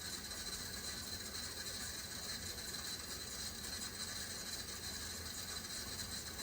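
Steady hiss of a kitchen faucet running at a slow flow while soapy hands are rubbed together.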